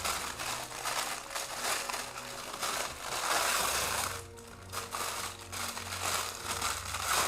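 Paper and plastic toy packaging crinkling and rustling as it is handled and the contents are pulled out, in an irregular run of crackles that is busiest about halfway through.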